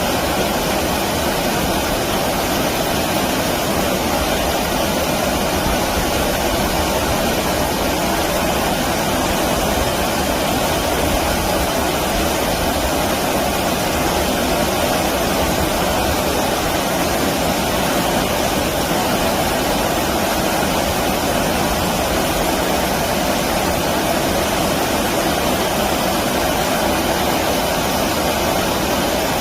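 Flowing stream water rushing steadily, a dense even hiss with no breaks or distinct events.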